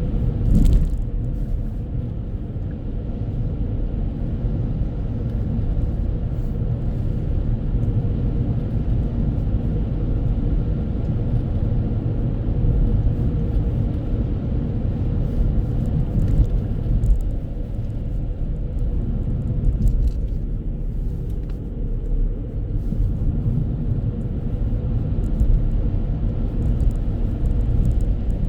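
Steady low rumble of a vehicle on the move, road and engine noise with no clear change.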